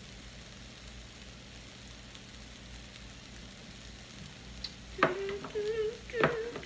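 Chicken and onions frying in a pan with a steady sizzle. About five seconds in there are two sharp utensil knocks, and a woman starts humming a wavering tune over the sizzle.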